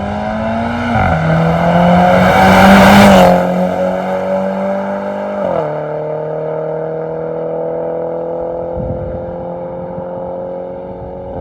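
MINI Cooper S F56's B48 turbocharged 2.0-litre four-cylinder running through an MS-R valved cat-back exhaust. Its revs climb and hold high, loudest about two to three seconds in, then drop in two steps to a steady idle.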